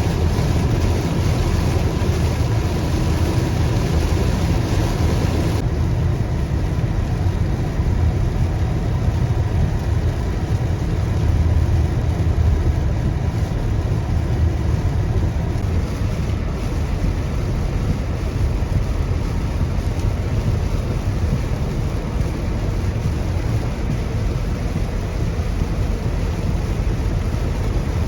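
Steady low rumble of a car driving, with road and rain noise; the hiss in the upper range drops off about six seconds in.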